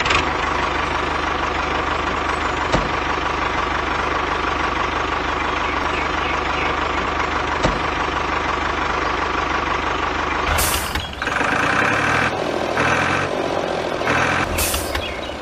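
Steady engine-like running sound of a DIY mini tractor, holding an even tone for about ten seconds, then changing to a choppier, stop-start pattern about eleven seconds in.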